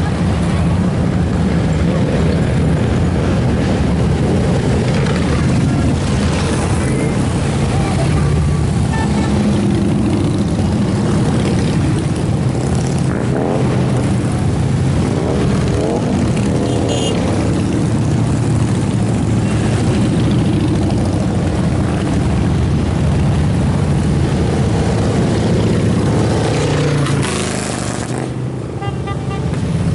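Many motorcycle engines rumbling steadily as a stream of bikes rides past, with engines revving up and down about halfway through.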